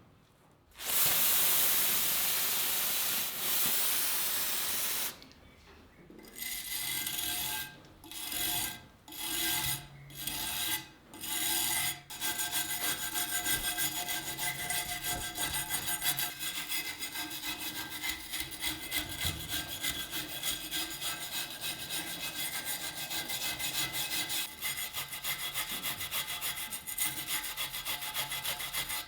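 Abrasive scraping and rubbing on the rusted steel of a survival knife as the rust is worked off: first a few separate strokes about one a second, then continuous rapid scraping with a faint metallic ring.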